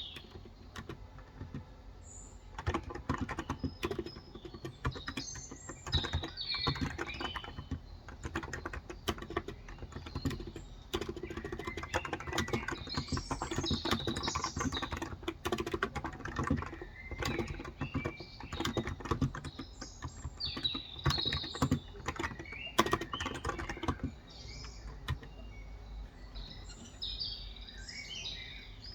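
Typing on a Cox Endeavor electrostatic-capacitive (Topre-style) tenkeyless keyboard with light 35 g switches, in uneven runs of soft key clicks. Birds chirp in the background throughout. The typing stops about four seconds before the end, leaving only the birdsong.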